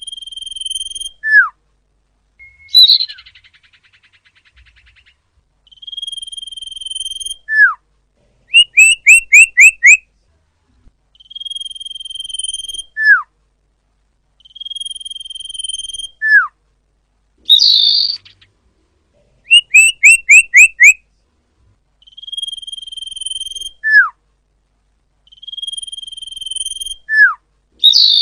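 Common iora (cipoh) lure recording: loud, clear calls repeating over and over. Each main call is a long steady whistle that ends in a short falling note. Twice there is a rapid run of five quick notes, and three times a harsh rasping call.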